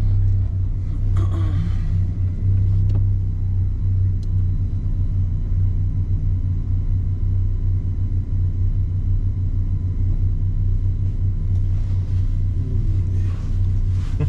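Turbocharged Mazda MX-5's four-cylinder engine idling steadily, a low rumble heard from inside the cabin.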